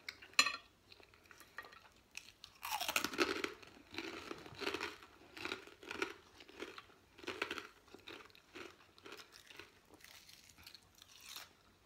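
Close-up chewing of crisp raw vegetables and noodle salad: a sharp click just after the start, then a loud crunching bite about three seconds in, followed by regular crisp chews about two a second that grow fainter toward the end, with one more crunch near the end.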